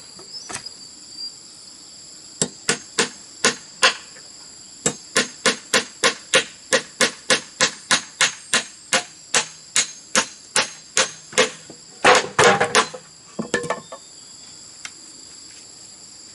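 A hand tool striking bamboo in a steady run of sharp blows, about three a second, ending in a quick clatter of blows a little before the end. Insects shrill steadily behind.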